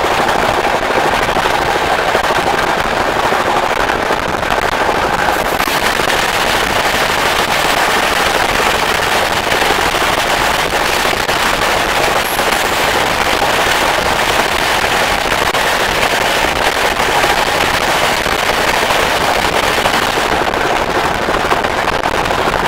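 Train running at speed: a loud, steady rush of wheels on the rails, thick with fast, continuous clatter.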